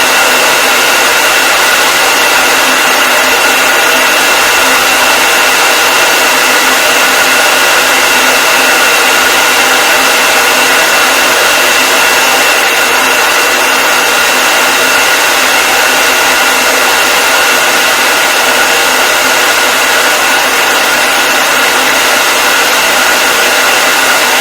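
Hair dryer running continuously: a steady, even rushing hiss of air with a constant motor whine.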